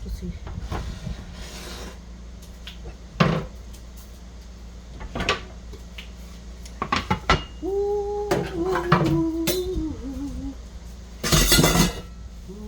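Dishes and cutlery clinking and knocking as food is plated: scattered single clatters, then a longer rattle about eleven seconds in.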